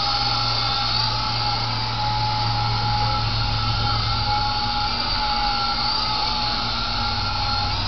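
Small electric motors of a toy remote-control helicopter in flight: a steady high-pitched whine that wavers slightly in pitch with throttle, over the low buzz of the spinning rotors.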